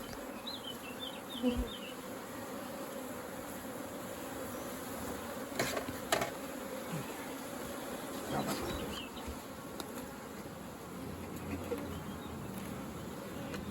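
Honeybees buzzing around an open hive, a steady drone throughout. Two sharp knocks come about six seconds in, and a few short high chirps sound near the start.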